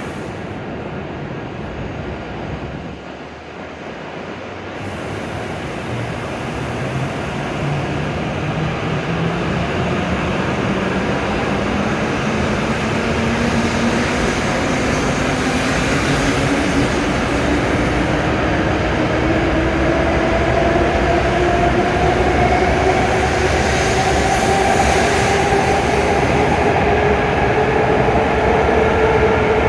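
E7 series Shinkansen train pulling away and accelerating: its traction motors whine, rising steadily in pitch over a mounting rumble of running gear.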